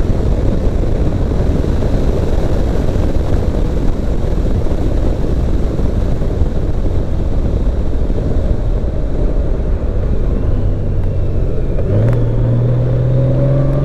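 Motorcycle riding along, its engine running under a dense low wind rumble. About ten seconds in a steady engine note comes through, and it steps up in pitch about two seconds later as the bike picks up speed.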